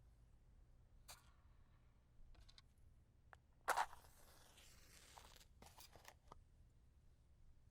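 A wooden match struck against the box: a sharp scrape about halfway through that flares into a second or so of hissing as the head catches. Light clicks of the matchbox and matches being handled come before and after.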